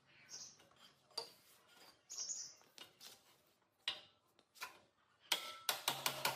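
Metal parts clinking and knocking as they are handled, then near the end a quick series of sharp metal strikes, about three a second, that ring briefly.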